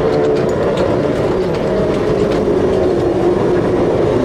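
Hakone Tozan Railway 1000-series electric car rolling slowly past close by: a steady rumble of wheels on rail with a held hum, and scattered sharp clicks from the wheels and track in the first couple of seconds.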